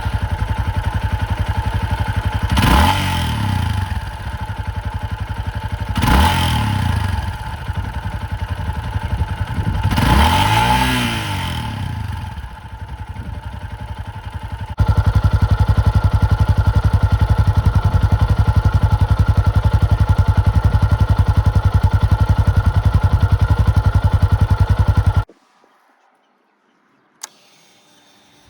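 Yamaha Serow 250's single-cylinder four-stroke engine idling through a BEAMS Power Trek aftermarket silencer, blipped three times, each rev rising and falling back to idle. About halfway through it jumps to a louder steady idle, then stops abruptly near the end, leaving near quiet with a single click.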